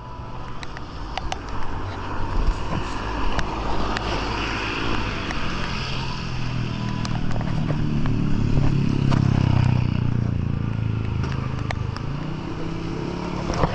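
A motor vehicle engine passes close by, rising to its loudest about nine seconds in and then fading. Under it runs a steady hiss with scattered sharp ticks.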